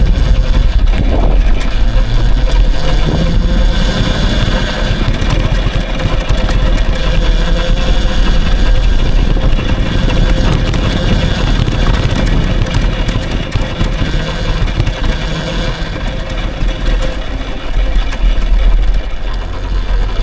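Riding noise from an electric dirt bike moving over a dirt trail: a loud, continuous rumble with a faint steady whine running through it.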